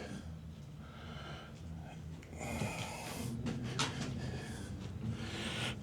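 A person breathing close to the microphone, a few slow, hissy breaths, with a couple of light clicks from handling about three and a half seconds in.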